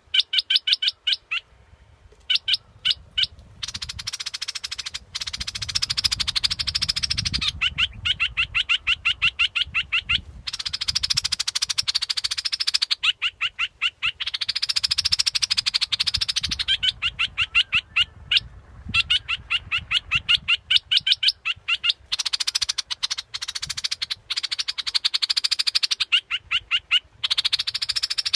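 A bulbul, the bird known in Thailand as 'nok dok taeng', calling in a recorded lure-call loop. Quick runs of short, evenly repeated notes alternate with denser chattering phrases, with brief pauses between them.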